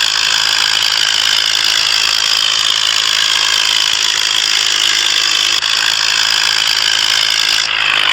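Ford tractor running steadily with a continuous mechanical clatter.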